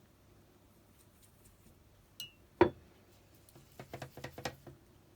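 A paintbrush knocking against a glass water jar and palette while changing colour: a brief ringing clink, a single sharp knock, then a quick run of light taps and clinks about four seconds in.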